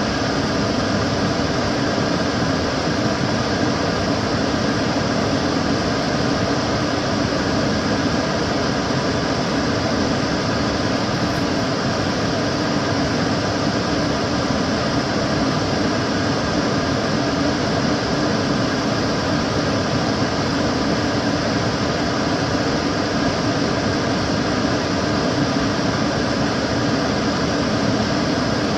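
Kitchen cooker hood extractor fan running steadily, a constant whooshing rush of air with a faint motor hum.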